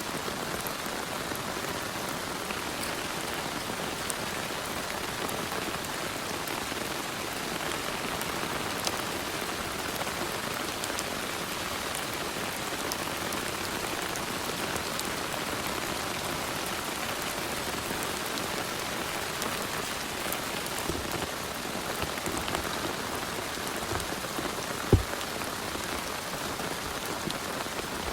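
Heavy rain falling steadily, with scattered sharp drops landing close by and one louder thump about 25 seconds in.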